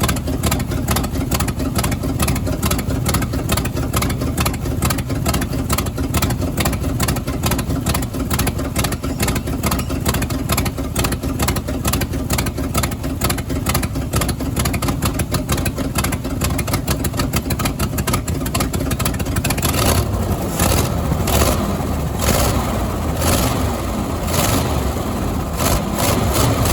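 Ford 361 V8 engine running at a steady idle with a fast, even firing beat, then revved with short throttle blips several times in the last seven seconds.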